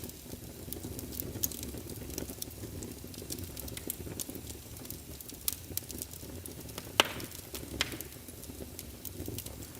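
Logs burning in a fireplace: a steady low rumble of flame with many small crackles and sharp pops, the loudest pop about seven seconds in.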